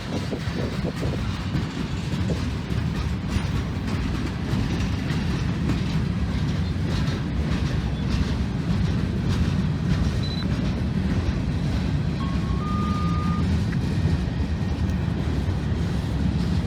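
Freight train rolling past: a steady, loud rumble of cars on the rails with wheel clatter. A short two-note beep comes about twelve seconds in.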